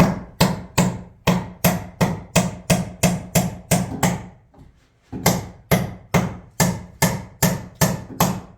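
A hammer driving nails into wood framing, steady blows about two a second, with a short pause about halfway through.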